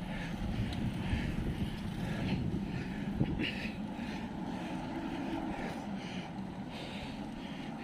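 Steady rumble of road traffic and wind noise heard from a moving bicycle, with a faint engine tone showing through midway.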